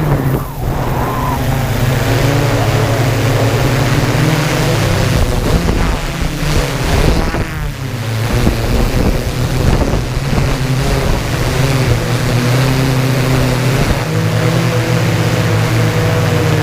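Yuneec Typhoon G drone's propellers and motors humming steadily, heard through strong wind rushing and buffeting the microphone, with the hum briefly dipping twice.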